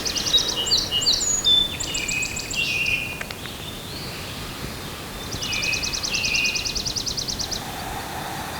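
Wild songbirds singing. A high, rapid trill of evenly repeated notes comes at the start, again about two seconds in, and again from about five to seven and a half seconds in, with shorter chirps between the trills.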